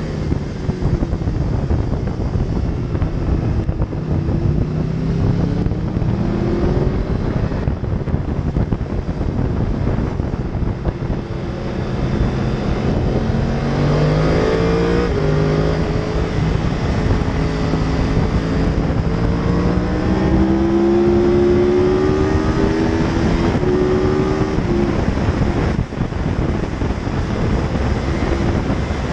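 A 2014 Yamaha YZF R1's crossplane inline-four engine ridden hard, its note climbing and falling with throttle and gear changes: one climb about halfway through, a longer one after it, then a sudden drop near the end. Heavy wind rushes over the bike-mounted microphone throughout.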